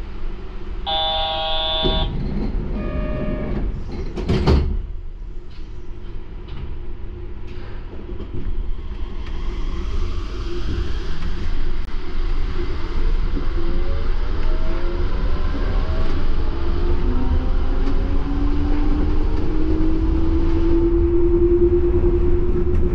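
Yurikamome rubber-tyred automated train, heard from inside: an electronic tone sounds twice in the first few seconds, then a sharp knock at about four and a half seconds. The train then pulls away, its running noise growing louder and a motor whine rising in pitch as it accelerates.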